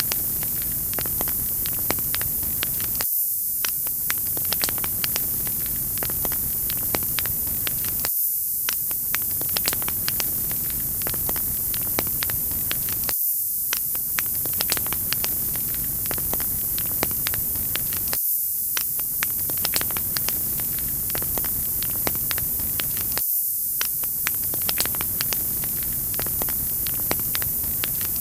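Wood fire crackling, with many small sharp pops over a steady loud hiss. The lower sound dips out briefly about every five seconds, as if a short stretch repeats.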